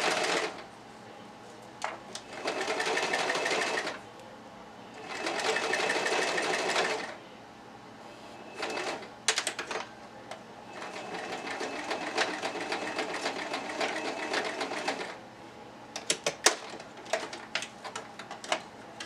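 Sewing machine stitching hair tracks onto a wig cap in short runs: two runs of about two seconds, then a longer run of about four seconds. Scattered clicks and taps fall in the pauses between runs.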